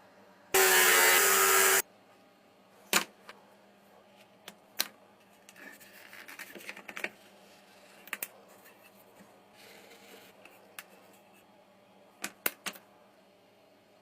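A power tool runs in one short burst of about a second, starting and stopping abruptly. It is followed by scattered clicks and light knocks of small parts being handled.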